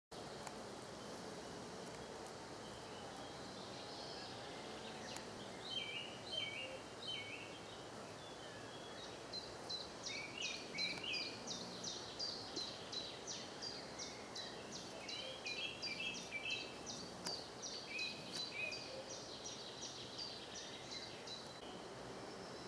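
Small birds singing over a steady outdoor hiss. From about nine seconds in, one bird repeats a short high note about three times a second for some ten seconds, with lower chirps scattered in between.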